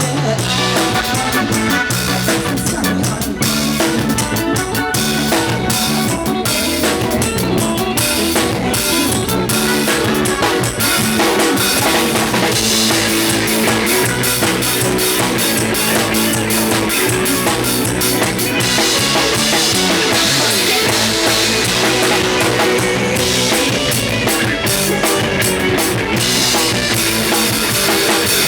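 Isan-style band music: a drum kit keeps a steady beat under electric bass and guitar.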